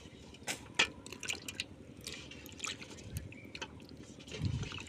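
Water dripping and splashing in small, irregular drops and clicks, with a soft low thump near the end.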